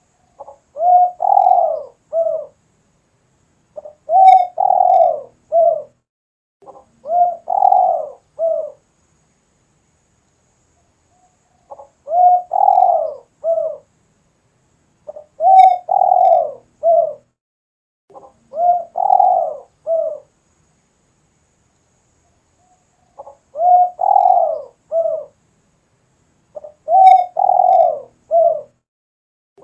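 A spotted dove cooing: eight repeated phrases, each a short soft note running into a longer coo and a clipped final note, mostly in runs of three about three seconds apart with longer pauses between the runs.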